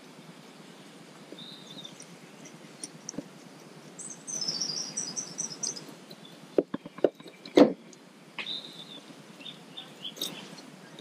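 Outdoor background with songbirds chirping, including a run of quick high chirps about four seconds in. A few sharp taps or knocks come a little after halfway and are the loudest sounds.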